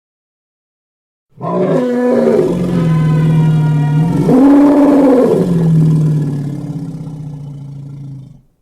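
Elephant's low, pitched roar lasting about seven seconds, starting just over a second in. Its pitch rises and falls back around the middle, and it fades before stopping suddenly.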